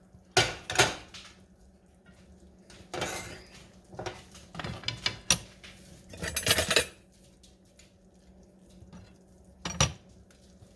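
Metal spoon knocking and scraping against a pot and plate while mashed potatoes are dished out, in several short bursts of clatter spread a second or two apart.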